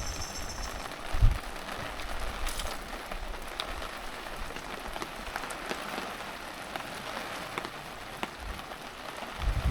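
Heavy rain falling steadily, with scattered drops ticking close by. Two low thumps, about a second in and near the end.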